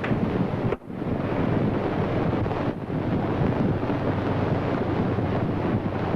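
Steady rushing, wind-like noise on an old film soundtrack, broken by two brief dropouts about a second in and near the three-second mark.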